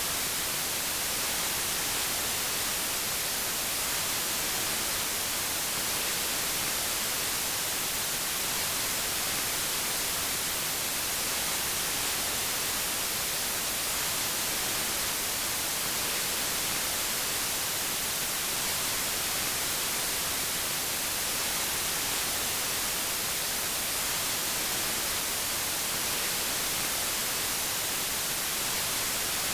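Steady white noise: an even, unchanging hiss, bright and strongest in the high frequencies.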